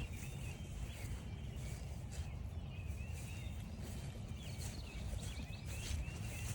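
Small songbirds twittering and singing in a steady run of short chirpy phrases, with irregular crunching footsteps on frosty, crunchy grass and a steady low rumble underneath.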